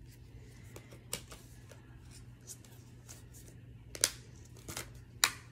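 A movie disc case being handled and opened: scattered rustling with a few sharp clicks, the loudest about four seconds in and just before the end.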